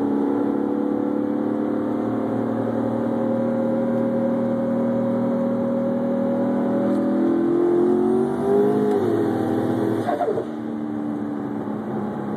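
Twin-turbocharged 392 stroker Hemi V8 in a Dodge Charger under hard acceleration, heard from inside the cabin. Its pitch climbs steadily for about eight seconds, then falls away nine to ten seconds in, and the engine carries on more quietly at a lower, steady pitch.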